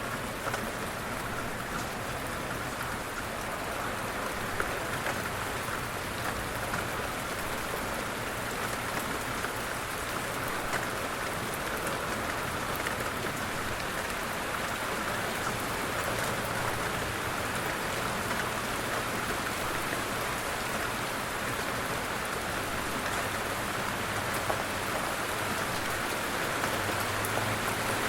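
Steady light rain falling, with scattered drops ticking on a surface.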